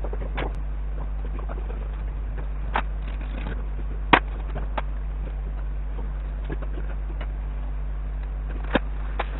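A few sharp clicks and knocks of tools or parts being handled, the loudest about four seconds in and two more near the end, over a steady low hum.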